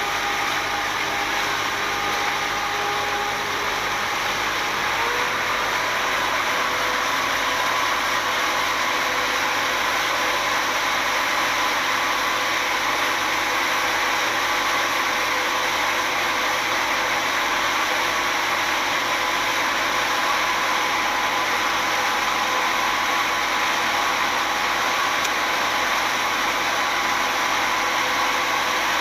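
Speedboat engine running steadily under a loud rush of wind and water noise. Its pitch rises a little about five seconds in.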